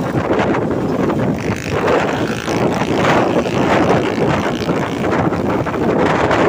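Road traffic passing close by, a loud steady rush of engines and tyres, with wind buffeting the microphone.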